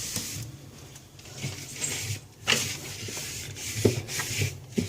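Cloth wiping and rubbing over the refrigerator's surfaces, with a few light knocks.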